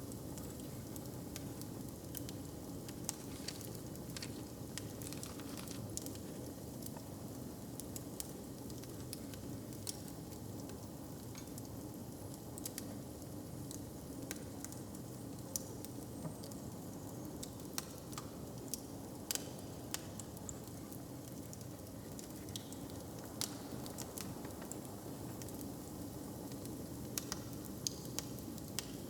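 Wood fire crackling in a hearth: irregular sharp pops and snaps over a steady low rumble.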